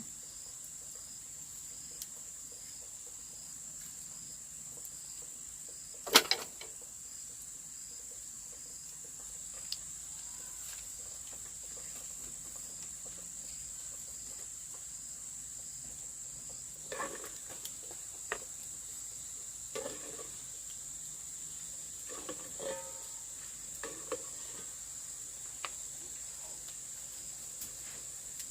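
Crickets or other insects trilling steadily, a high even drone that never stops. A sharp, loud click about six seconds in, and a scatter of small knocks and clicks in the second half.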